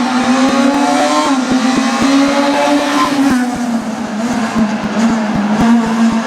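Rally car engine held at steady, raised revs, its note sagging slightly, with frequent sharp crackles.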